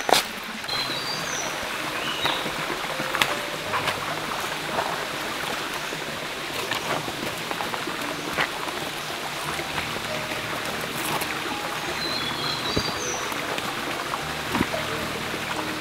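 Stream water running steadily over rocks, with scattered small clicks and splashes.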